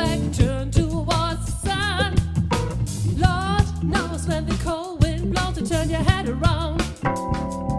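Live funk-soul band playing an instrumental passage: drum kit and bass under a lead line that bends and wavers in pitch, with a steady held chord coming in near the end.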